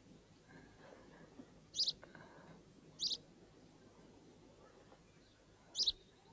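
A small bird chirping: three short, high chirps, the first two over a second apart and the last near the end.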